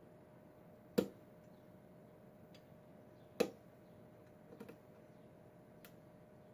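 Sharp metallic clicks of a lock pick working the pins of a Schlage pin-tumbler lock: two louder clicks about a second and three seconds in, then a quick double click and a fainter one.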